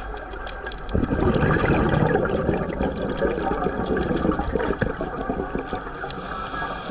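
Scuba diver's exhaled bubbles rushing out of the regulator, a noisy gurgling burst starting about a second in and easing off over several seconds, heard underwater with scattered faint clicks.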